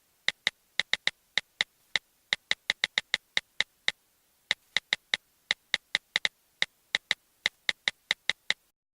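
A sound effect of a long run of sharp, dry clicks at an uneven quick pace, about three to four a second, with a short pause a little before the middle.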